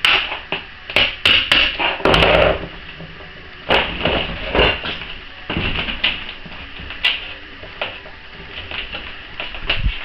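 Irregular knocks and taps of hand tools on laminate flooring as a plank is worked loose, with a longer scrape about two seconds in.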